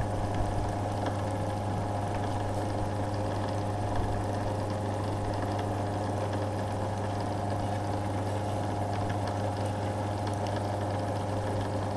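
Small belt-driven Flexispeed lathe running steadily on its electric motor with the chuck spinning and the automatic feed engaged, giving an even hum.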